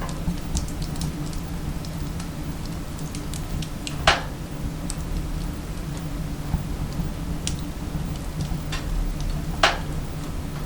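Firewood crackling in a wood-burning stove: scattered small ticks and snaps over a low steady drone, with two louder pops about four seconds in and near the end.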